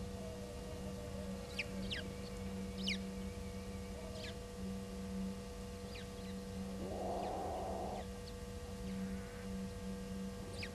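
An unidentified animal gives one low, rough call lasting about a second, some seven seconds in, against short high bird chirps and a steady electrical hum.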